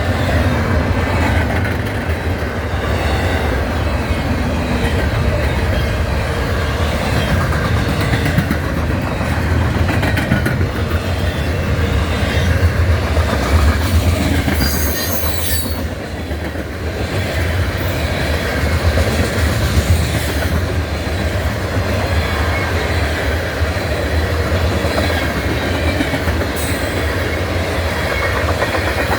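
Norfolk Southern manifest freight train rolling past, a steady rumble with the cars' wheels clacking over the rail joints. A brief high-pitched wheel squeal rises about fifteen seconds in.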